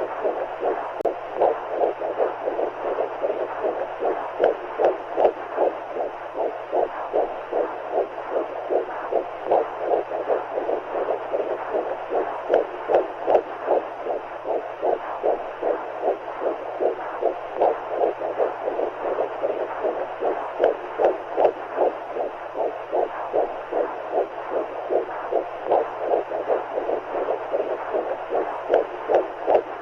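Womb sound for soothing a baby: a steady whooshing like fluid, pulsing in an even heartbeat rhythm, with a faint low hum underneath.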